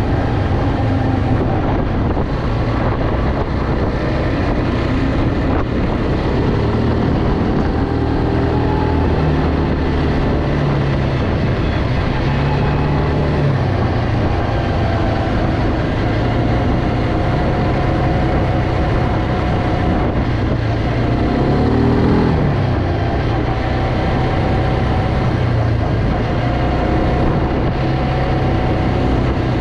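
Quad bike engine running steadily under way, its note rising and falling a few times with the throttle.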